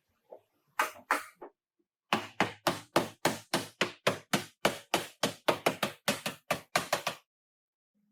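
Hammer blows on car bodywork: two strikes, then a steady run of about twenty blows at roughly four a second.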